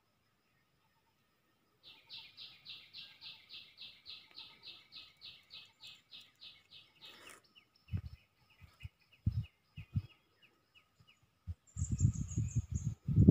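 Wild birds singing in woodland: starting about two seconds in, one bird repeats a high note about four times a second for some five seconds, fading, then another gives quick down-slurred notes. Low rumbling bursts of wind on the microphone come in now and then and grow heavy near the end.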